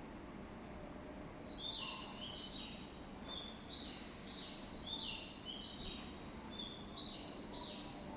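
Bird-like chirping: a repeated phrase of quick, high whistled notes that fall in pitch, starting about a second and a half in, over a steady low hum of background noise.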